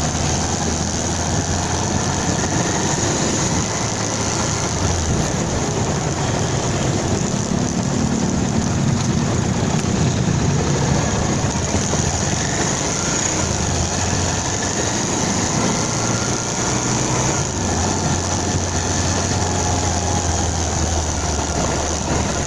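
Motorcycle engine running steadily under a constant hiss of road and wind noise, its note rising for a few seconds near the middle.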